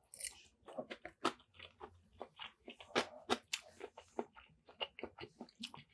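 A person chewing a mouthful of pepper shrimp fried rice: a quiet run of short, irregular mouth clicks and smacks.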